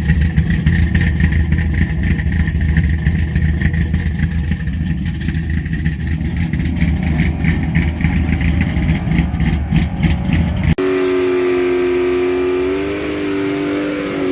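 Car engine idling close by with a deep, steady rumble; about eleven seconds in the sound cuts abruptly to an engine held at a steady higher note, which drops in pitch near the end.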